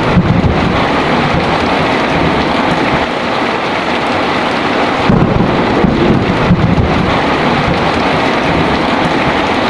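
Heavy rain pouring steadily. A low rumble of thunder rolls in briefly at the start and swells again about five seconds in.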